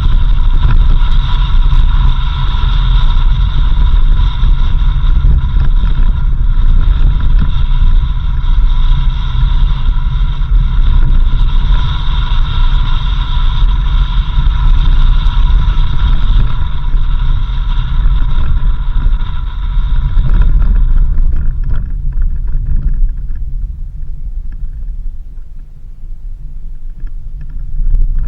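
A 4x4 vehicle driving on a dirt road: a loud, continuous low rumble of engine and tyres, with a steady high-pitched hum over it that cuts off about three quarters of the way through.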